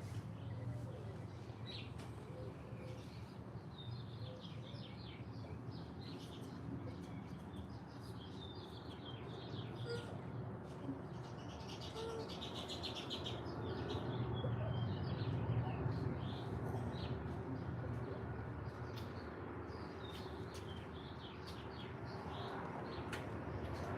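Several small birds chirping and twittering, many short overlapping calls, over a steady low background rumble.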